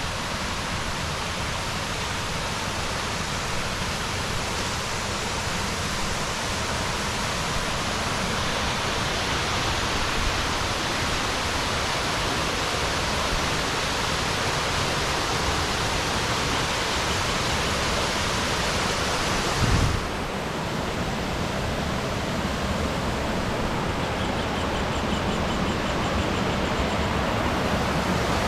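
A waterfall rushing in a steady, dense hiss. About two-thirds of the way in there is a brief low thump, and then the sound changes abruptly, with less of the high hiss.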